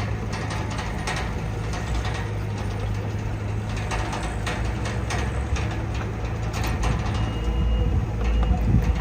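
Bulldozer diesel engine running steadily under load, with a constant clatter of metal clanks and rattles from the working machine and the stone it moves.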